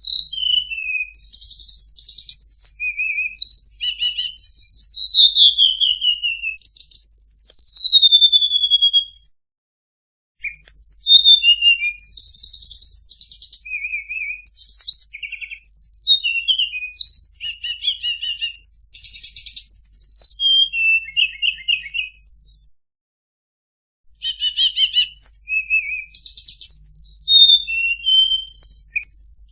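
Tledekan (blue flycatcher) song: rapid, varied phrases of high whistles, short trills and falling slurs, in three long bursts with two brief breaks.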